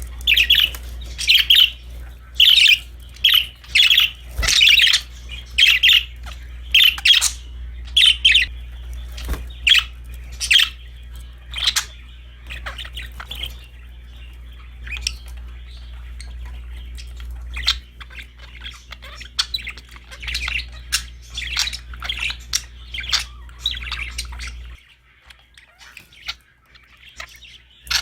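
Budgerigars chirping and squawking: a run of loud, sharp calls, about one or two a second, then softer, busier chatter. A low steady hum underneath stops near the end.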